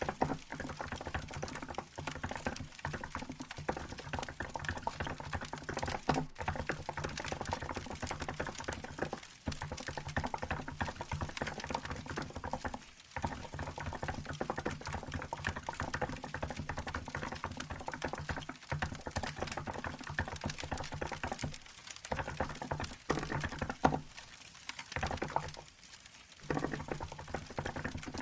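Fast, continuous typing on a Hansung GK868B mechanical keyboard fitted with milk keycaps, a dense run of keystroke clicks broken by a few short pauses, over the steady crackle of a fireplace.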